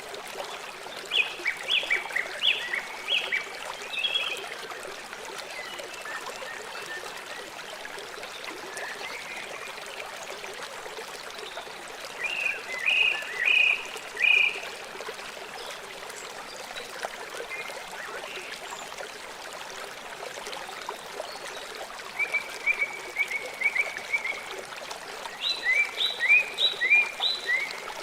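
River water running steadily, with bursts of short, high chirping calls from a small animal, four groups of them spread across the stretch.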